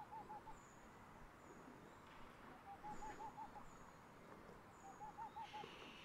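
Faint bird calls in a still winter forest: a short run of about five quick, low hooting notes, repeated three times, with thin high chirps scattered between.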